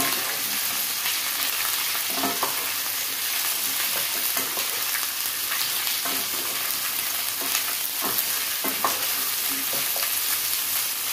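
Soya chunks and potato pieces sizzling steadily as they fry in mustard oil, with a spatula stirring and scraping through them now and then.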